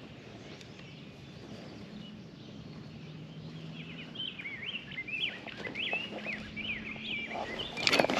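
A bird chirping outdoors: a quick run of short, high chirps that slide in pitch, starting about halfway through, over faint outdoor background.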